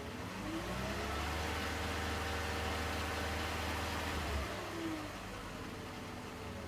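BMW E46 325Ci's 2.5-litre straight-six engine revved up from idle, held at raised revs for about three seconds, then let fall back to idle.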